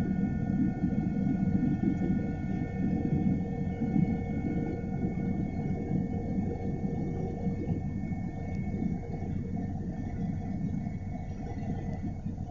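Helicopter cabin noise in flight: a steady engine and rotor drone with a few steady high whining tones over it.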